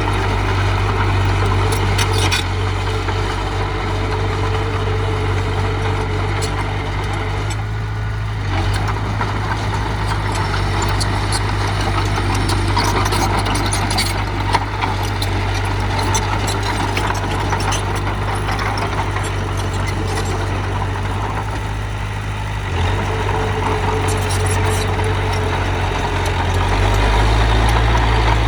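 Diesel engine of heavy earthmoving machinery running steadily, with scattered sharp clicks. Its note drops briefly about eight seconds in and again a little after twenty-two seconds, and grows deeper and louder near the end.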